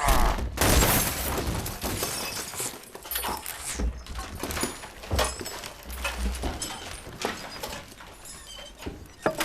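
Film sound effects of crashing and breaking: a string of sharp impacts and clattering debris over a low rumble, loudest near the start and thinning out after.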